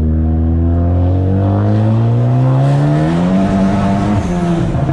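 Big-turbo Ford Focus ST engine under a hard full-throttle pull, its revs climbing steadily for about three seconds. The revs then drop about four seconds in, and crackling from the pop-tuned exhaust starts near the end.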